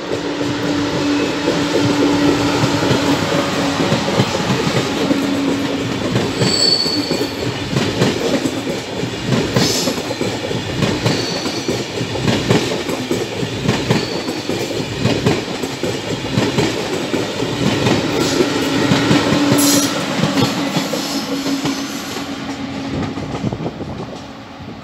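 A TGV high-speed train passing close by: steady rolling noise with a rhythmic clatter of wheels over the rails, a couple of brief high wheel squeals, and a hum as the power car goes by at the start and again near the end. The sound fades as the rear of the train draws away.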